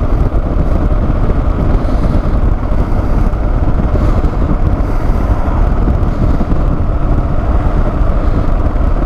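Steady wind rush over the microphone mixed with the drone of a Kawasaki KLR650 motorcycle underway.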